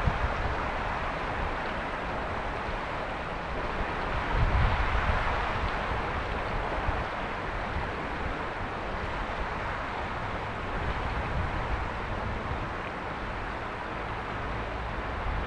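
Mountain river flowing: a steady rush of water over rocks, with a brief louder low rumble about four seconds in.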